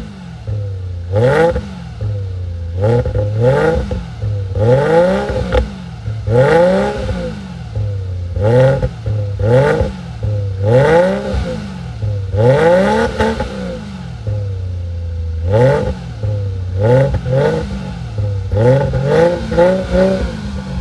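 Subaru EZ30 3.0-litre flat-six through a Kakimoto Regu 06&R aftermarket exhaust, revved in repeated short throttle blips that rise and fall in pitch, settling back to idle between them. The blips come in a quick cluster near the end.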